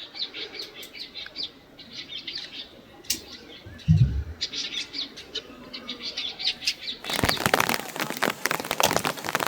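Birds chirping in many short, high notes, with one dull thump about four seconds in. At about seven seconds a loud, dense crackling rustle takes over.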